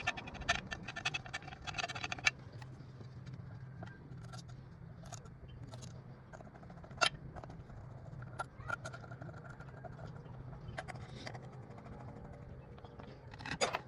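Scattered sharp clicks and taps of small hard objects being handled, denser in the first two seconds and again near the end, over a steady low hum.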